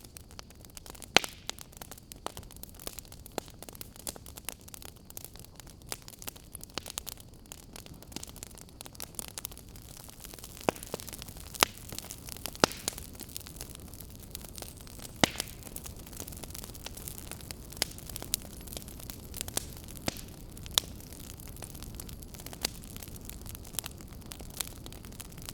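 Fire crackling: irregular sharp pops and snaps, a few much louder than the rest, over a low steady hiss.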